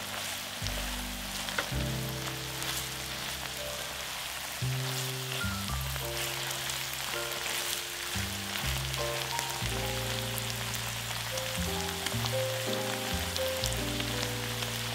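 Food sizzling and crackling as it fries in hot oil in a pan, under background music.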